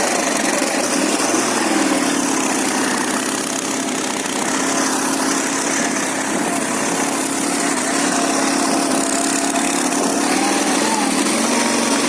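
Ural motorcycle's flat-twin engine running steadily under way, its pitch rising slightly a couple of times, over a steady rushing hiss.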